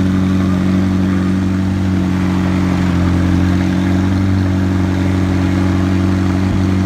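Loud sports car engine running steadily, a constant deep engine drone that holds the same pitch throughout.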